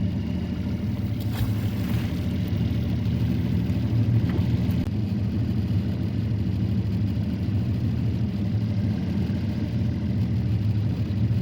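Tohatsu outboard motor running steadily, a continuous low rumble heard from aboard the boat.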